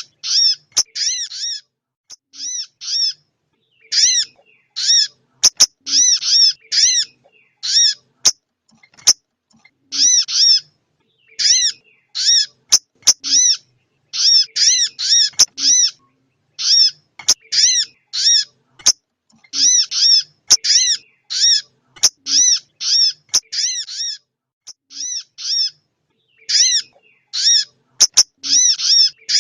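Female crimson sunbird (sogok ontong) calling: short, high, arched chip notes repeated in quick clusters of two to six with brief pauses between, broken by sharp clicks.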